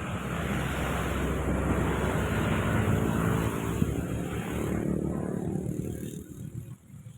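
A strong gust of wind rushing through cogon grass (alang-alang), swelling over the first couple of seconds and dying away about six seconds in.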